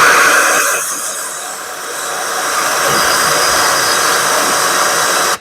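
Loud steady hiss of air rushing at an open spark plug hole, strongest at first, easing a little about a second in, then steady until it cuts off suddenly.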